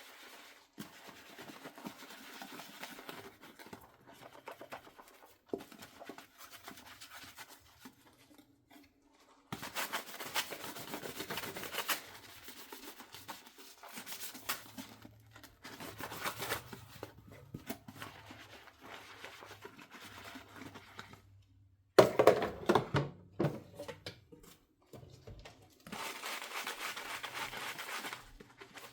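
Dishes being washed by hand in a sink: a sponge scrubbing in stretches of a few seconds each, with a quick cluster of dishes knocking together about three quarters of the way through.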